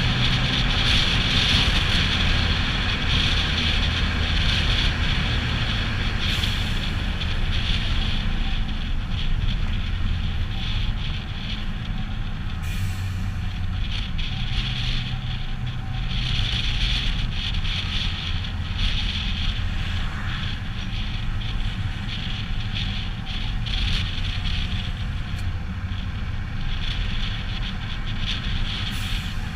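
Heavy truck diesel engine running steadily, its low note shifting a little now and then, with a constant hiss over it.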